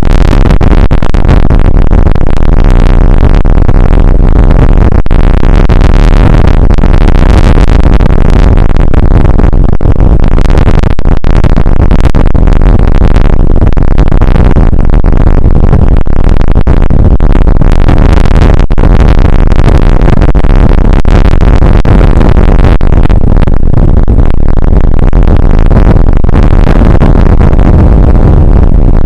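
Loud, heavily distorted noise, steady throughout and overloading the recording, with no clear tones or beat.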